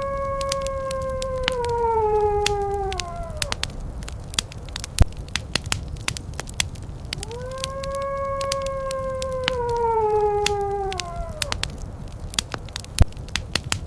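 Wolf howling twice, each howl a long held note that slides down in pitch at its end: one fading out about three and a half seconds in, the next from about seven to eleven and a half seconds. Underneath, a wood fire crackles steadily with sharp pops, two of them loud, at about five and thirteen seconds.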